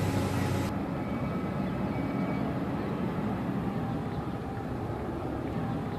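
Steady outdoor rumble, like vehicle engines idling. Under a second in the high hiss drops away abruptly, leaving the low rumble.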